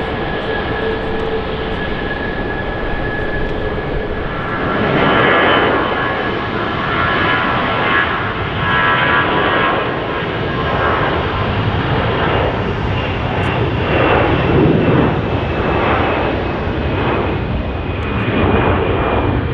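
Jet engines of an Airbus A320-family airliner going past: a steady rush of jet noise with a thin high whine over it. About five seconds in it grows louder and rougher, and stays loud and wavering after that.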